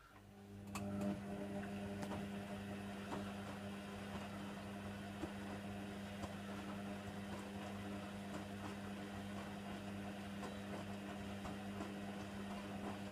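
Hoover Nextra HNWL7146 washer dryer's motor running with a steady low hum and light clicks and knocks over it. It starts just after the beginning and cuts off near the end, as in one drum-turning or pumping phase of the wash cycle.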